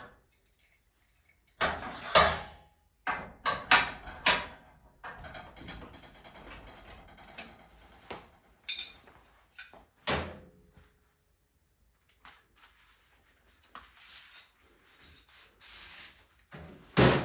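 A series of irregular knocks and clatters: several close together in the first few seconds, single knocks later on, and a sharp knock near the end.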